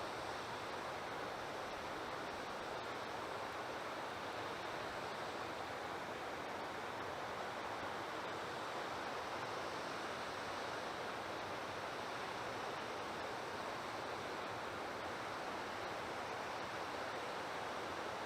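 A steady, even rushing noise at one level, with no distinct calls or knocks standing out.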